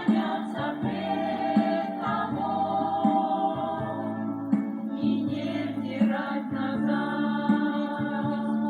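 Christian worship band performing a song: several voices singing together in harmony over steady low instrumental notes, with regular percussive beats.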